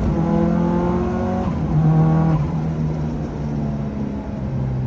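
Lancia Delta Integrale Group A rally car's turbocharged four-cylinder engine running, its pitch dropping in steps about a second and a half in and again near the end as the revs come down.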